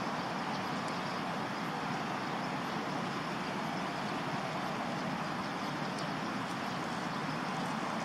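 Steady, even rushing background noise outdoors, with no distinct events or changes.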